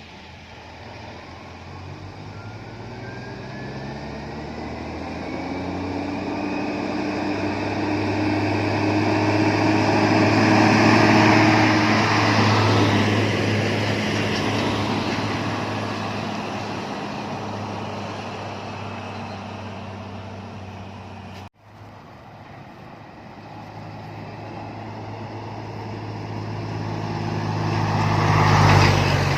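Diesel engine of a container truck climbing a hill, growing louder as it passes at steady engine speed and then fading. After a sudden cut about two-thirds of the way through, another truck engine swells up, loudest near the end.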